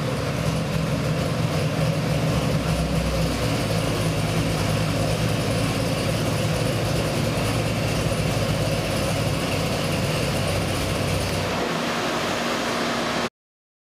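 Ford 351 Cleveland–based 393 stroker V8 on an engine dyno, idling steadily after a rev, with a big hydraulic roller cam. The sound cuts off abruptly near the end.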